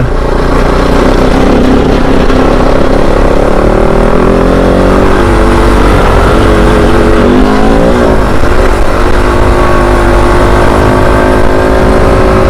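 Kove 450 Rally's single-cylinder engine running under way on a dirt trail. The engine note dips and rises with the throttle for the first several seconds, then holds steady.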